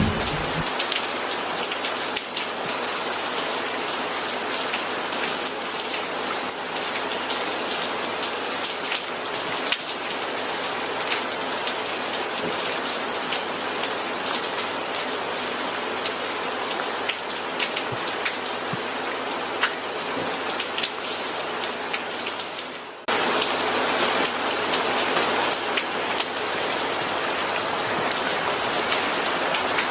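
Steady rain falling on surfaces, with individual drops ticking through it. A low thunder rumble dies away at the very start. About three-quarters of the way through, the rain cuts out for an instant and comes back louder.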